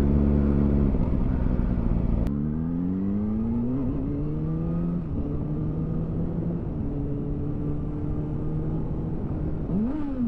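Kawasaki ZX6R sport bike's inline-four running through a Yoshimura carbon end can, heard from the rider's position: steady revs, then a gear change about two seconds in, after which the engine note climbs as the bike accelerates and levels off. A brief rise and fall in pitch comes near the end.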